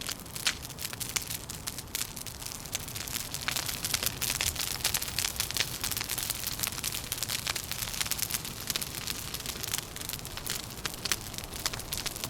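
Wood fire crackling with dense, irregular pops and snaps over a steady low background.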